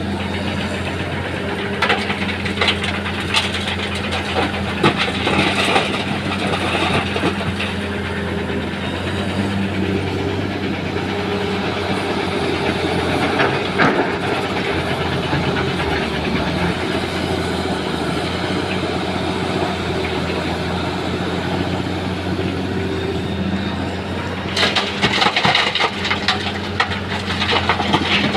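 A diesel engine runs steadily while stones are loaded into a truck's bed, with bursts of rattling rock a few seconds in, once in the middle, and again near the end.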